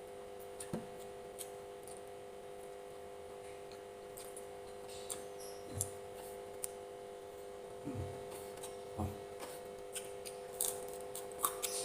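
A person eating close to the microphone: irregular wet clicks and smacks of chewing, with a few soft thumps, over a steady low hum.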